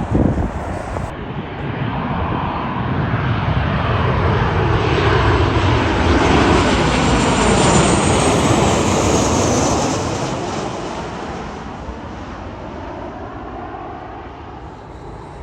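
Airliner passing by with its engines running: the engine noise swells to a peak about halfway through and then fades away, with a high whine that drifts down in pitch after the plane passes. A brief thump right at the start.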